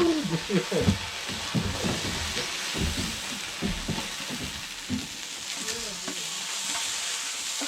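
Food frying in hot oil on a cast-iron cauldron lid over a wood fire: a steady, loud sizzle that starts suddenly.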